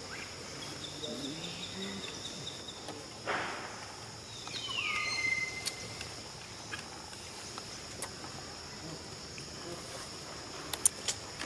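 Wild monkey giving a high-pitched call that slides down and holds briefly about halfway through, over steady insect buzzing. A short rustling rush comes just before the call.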